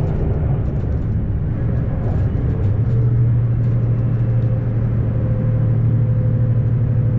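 Diesel railcar running under way, heard from inside the cabin: a steady low engine drone with track rumble, the drone growing louder about three seconds in, with faint clicks.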